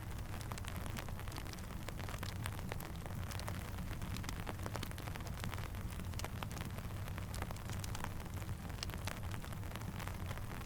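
Steady rain falling, with many small sharp ticks and pops through it and a low steady rumble underneath, mixed with a crackling campfire.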